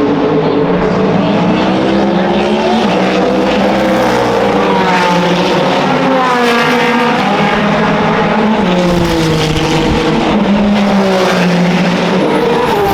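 Race car engines at speed, their pitch rising and falling again and again as the cars accelerate, change gear and pass.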